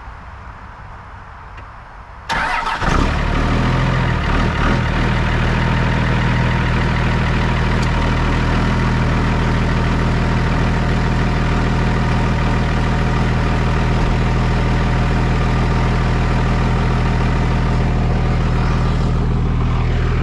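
A 1999 Dodge Ram's 5.9-litre Cummins turbo-diesel starts about two seconds in and catches at once. It is a little uneven for a couple of seconds, then settles into a steady idle.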